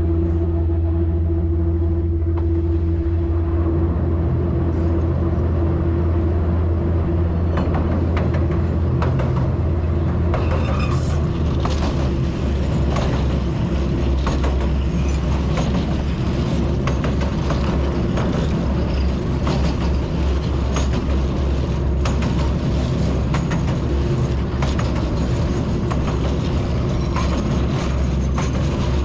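Diesel locomotive running steadily with a deep, constant hum, heard from the cab as the train travels along the line. From about eight seconds in, the wheels knock and clatter over the rails and across a timber-decked bridge, in many sharp irregular knocks.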